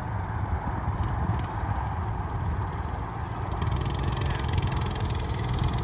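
Mini bike's small engine running steadily, growing louder about three and a half seconds in.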